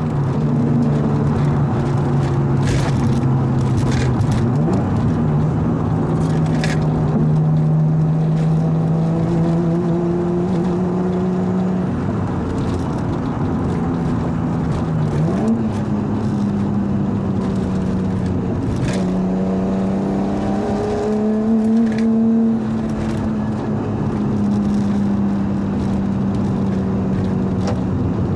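Straight-piped RB25DET turbocharged straight-six of an R33 Nissan Skyline running under light load at a cruise. Its note holds steady, then drops and climbs back a few times, with a handful of sharp pops or clicks scattered through.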